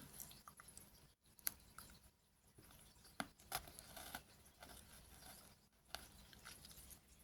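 Faint crunching of a pink Pocky biscuit stick being bitten and chewed, a few scattered crisp clicks.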